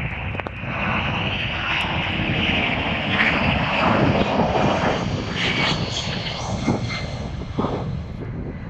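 Jet engines of an RAF Boeing C-17 Globemaster III running, a continuous rushing jet noise that grows louder about three seconds in and eases off near the end.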